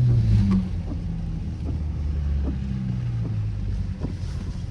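Straight-piped Dodge Charger SXT V6 exhaust falling off after a rev about half a second in, then running with a low, steady drone, over a hiss of tyres on wet road.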